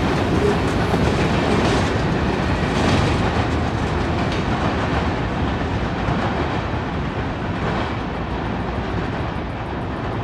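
Freight train's covered hopper cars rolling past and away on the rails, wheels rumbling and clattering. The sound slowly fades as the last cars recede.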